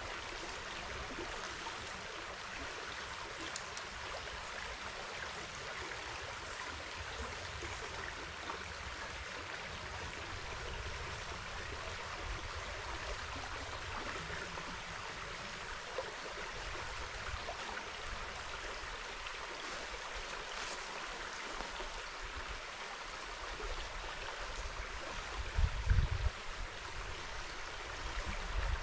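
River water flowing over stones, a steady rushing. A brief low thump or buffet on the microphone comes near the end.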